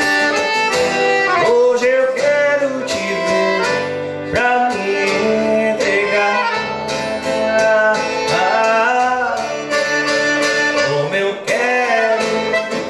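Instrumental break of a romantic Brazilian song: a melodic lead with sliding notes over guitar and accordion accompaniment.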